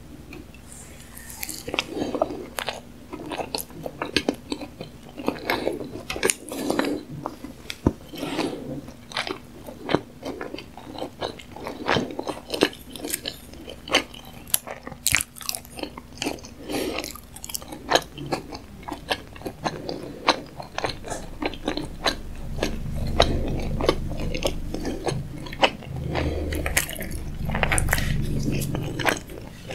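Close-miked mouth sounds of a person biting and chewing sushi (a nori-wrapped piece and tuna nigiri): wet smacks and many small clicks and crunches. A low hum comes in twice in the second half.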